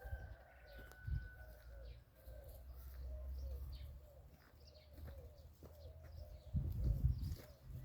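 Birds calling: a run of short, repeated low cooing notes with a few higher chirps over them, and low thuds and rumble that are loudest near the end.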